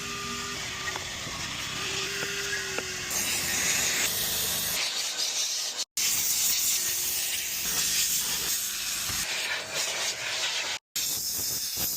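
Steady spraying hiss from a car-detailing cleaning tool working on a truck interior, cut off abruptly twice.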